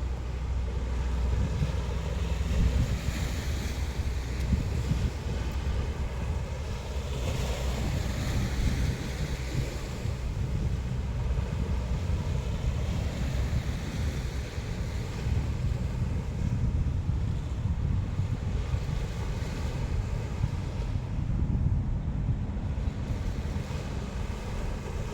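Sea waves breaking and washing in, swelling and easing several times, under strong wind rumbling on the microphone.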